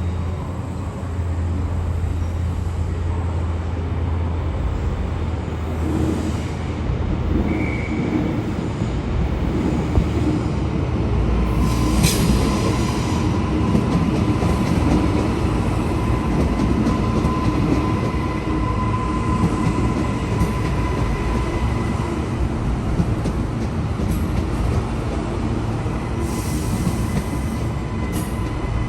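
Queensland Rail electric suburban train moving along the platform, a continuous loud rumble of wheels and running gear. From about eleven seconds in, a steady high thin squeal from the wheels joins it.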